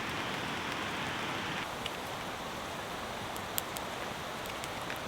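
Steady heavy rain falling, an even hiss with a few faint sharp ticks; it drops slightly in level about a second and a half in.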